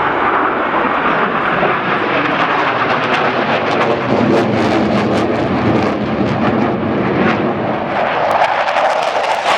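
Blue Angels F/A-18 Hornet jets flying past, a loud continuous jet roar.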